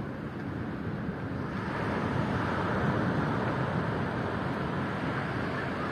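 Ocean surf washing against the shore, with wind buffeting the microphone; the wash swells about two seconds in.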